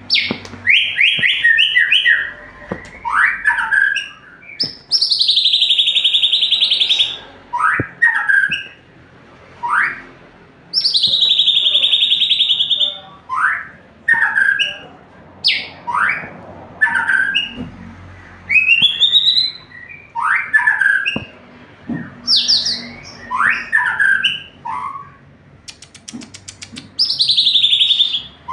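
White-rumped shama singing loudly and without pause. Short rising whistles alternate with long, harsh, rasping phrases that dip and rise again, each lasting one to two seconds.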